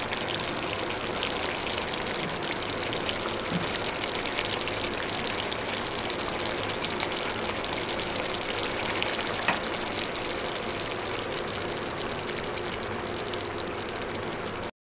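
Chicken curry cooking in ghee in a frying pan, sizzling steadily with fine crackles.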